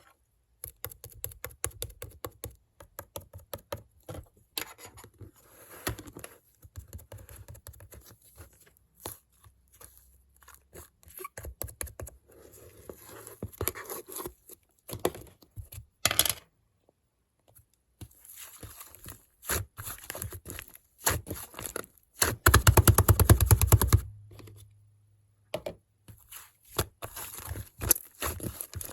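Slime being squeezed and stretched by hand, making runs of rapid sticky clicks and pops. About two-thirds of the way through there is a louder, denser stretch of crackling.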